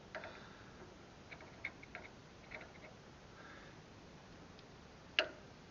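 Light clicks and taps of a screwdriver against small metal parts during hand work on a tractor engine, with one sharper click about five seconds in.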